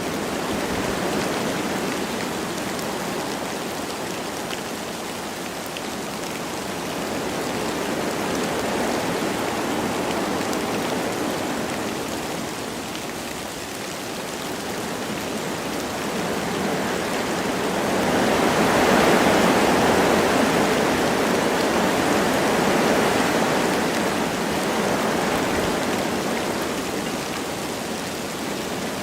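Wind rushing through forest trees with light rain falling, a steady noise that rises and falls in slow waves and swells strongest about two-thirds of the way through.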